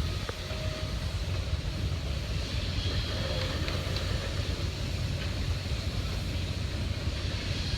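Steady low rumble of machinery running.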